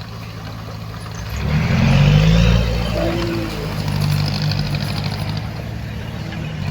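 Heavy diesel earthmoving machine's engine working, swelling in loudness about a second and a half in, then running steadily.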